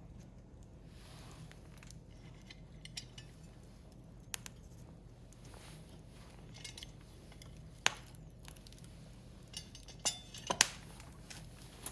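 Firewood burning in a Picogrill fire pit, crackling with a few sharp, scattered pops, the loudest ones close together near the end.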